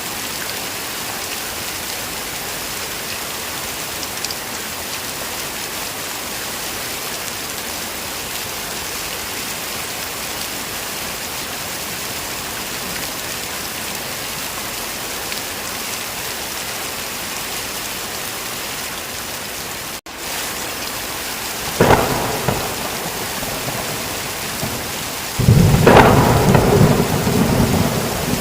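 Heavy rain falling steadily, broken by a split-second dropout about twenty seconds in. A thunderclap cracks about two seconds after the dropout. A louder, longer roll of thunder starts near the end and runs on under the rain.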